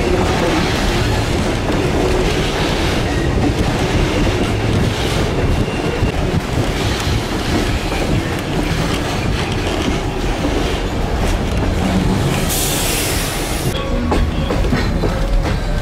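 Passenger train running on the rails, heard from one of its moving carriages: a steady rumble of wheels on track, with a brief hiss about twelve and a half seconds in.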